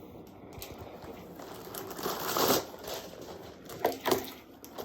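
Plastic gallon bag crinkling and rustling as it is pulled from its box, loudest a little past two seconds in, with a few sharp crackles near the end.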